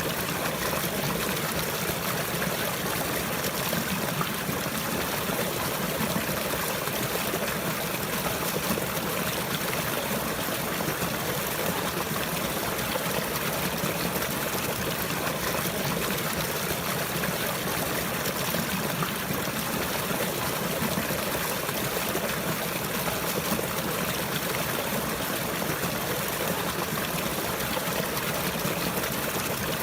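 Running water trickling and flowing steadily, an even splashing wash with no breaks.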